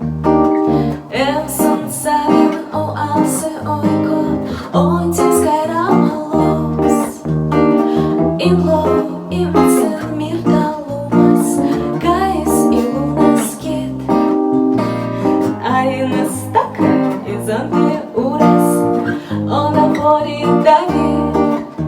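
Acoustic guitar playing an instrumental introduction: plucked and strummed chords over a moving bass line.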